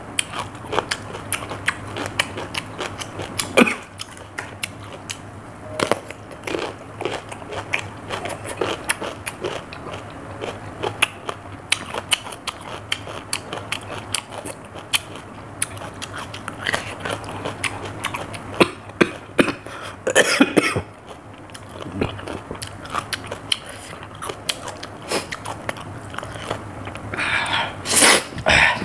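A person biting and chewing raw cucumber, with dense irregular crunches throughout. Two louder, longer noises come, one past the middle and one near the end.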